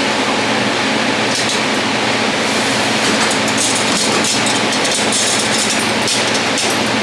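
Steady, loud machine noise, a hum under an even hiss, with scattered light clicks and clatter.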